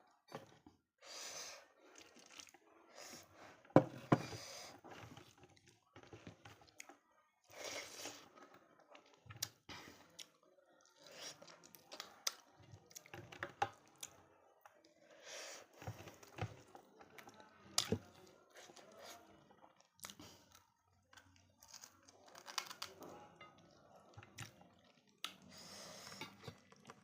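Close-up eating sounds of mutton on the bone with rice: irregular chewing and gnawing, with scattered sharp clicks and smacks, the loudest about four seconds in.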